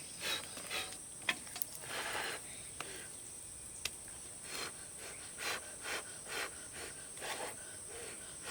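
A person's short breathy puffs, repeated irregularly every half second to a second, with a few faint sharp clicks, over a steady high-pitched drone.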